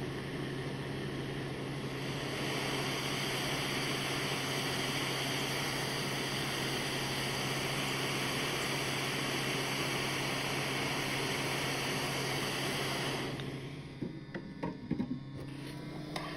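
A small electric blower or fan motor runs steadily with a hum and a broad hiss, then is switched off about thirteen seconds in, leaving a few light clicks and knocks of handling.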